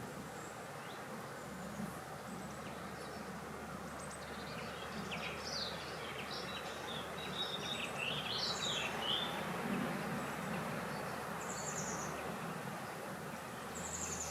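Birds chirping and calling in short scattered phrases, busiest in the middle, over a steady hiss of wind; two short, high, buzzy trills come near the end.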